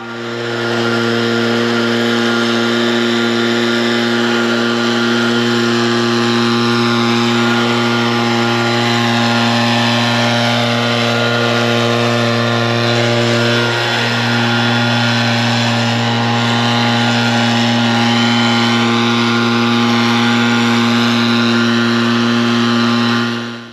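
An engine running steadily at high speed throughout, with a brief dip in level about two-thirds of the way through.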